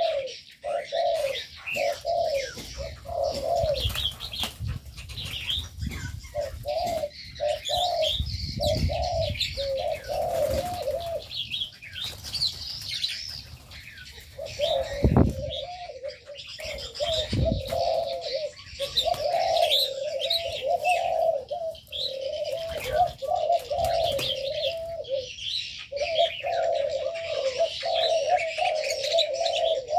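Aviary birds calling: a low, wavering call repeated almost without pause, with higher chirping over it. Two low thumps come about halfway through.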